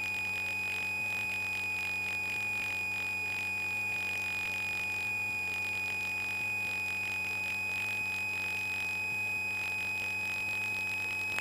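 A steady, unchanging high-pitched electronic tone with fainter overtones and a low hum beneath, which cuts off abruptly near the end.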